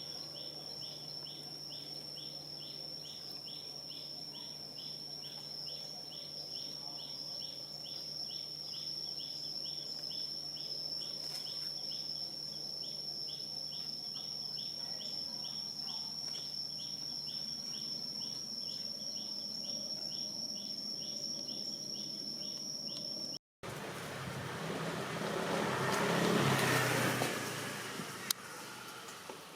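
Insects trilling outdoors: a steady high whine with a rhythmic chirp about twice a second. After a brief cut near the end, a rush of noise swells and fades over a few seconds, and a sharp click follows.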